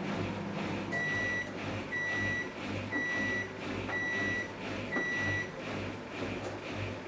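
Samsung Eco Bubble washing machine beeping five times, identical high beeps about once a second, over the low hum of the machine running its wash.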